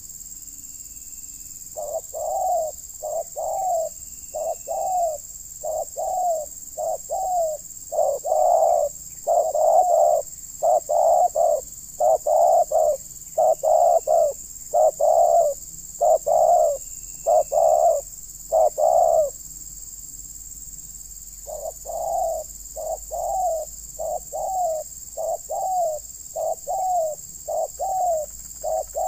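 Spotted doves cooing in runs of short, low, repeated coos, pausing for about two seconds midway before starting again, over a steady high-pitched insect drone.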